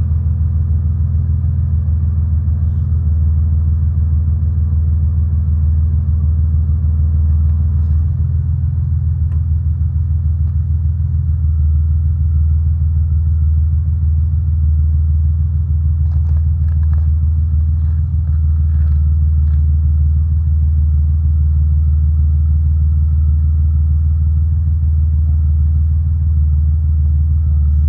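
Yanmar YM146 garden tractor's small diesel engine running steadily, its note shifting slightly about eight seconds in, with a few faint clicks later on.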